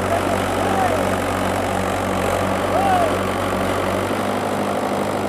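Tractor engine idling steadily; its lowest rumble drops away about four seconds in.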